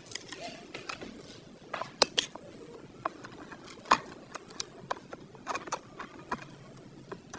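Irregular light clicks and taps, the sharpest about two and four seconds in.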